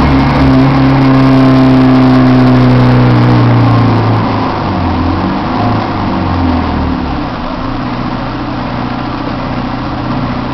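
Heuliez GX 427 articulated bus's engine and drivetrain running with a loud, abnormal humming drone that sags slightly in pitch and fades out about four seconds in, leaving quieter running noise. The noise is much louder than the bus's normal sound.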